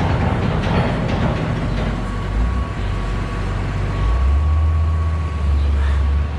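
A heavy engine running steadily with a low rumble, a deeper hum swelling in from about four seconds in and dropping away near the end.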